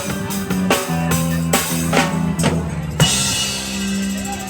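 Live rock band playing an instrumental passage, the drum kit hitting on the beat about three times a second over bass and guitar; about three seconds in, a cymbal crash lands and the band holds a ringing chord.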